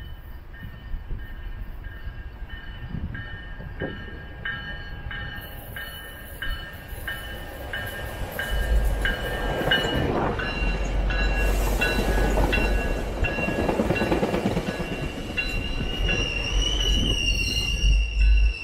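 A train passing, its rumble growing louder about halfway through, with steel wheels squealing near the end. A high ringing repeats about twice a second through most of it.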